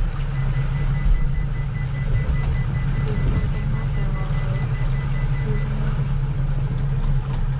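Motorboat engine running steadily at a constant low pitch.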